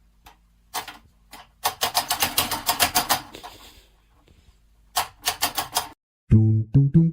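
Rapid run of sharp clicks or taps, about seven a second, then a shorter second run; music with plucked bass notes comes in near the end.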